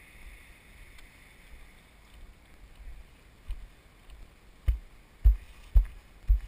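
Faint hiss, then from about halfway through a run of dull low thumps, roughly two a second, growing louder toward the end.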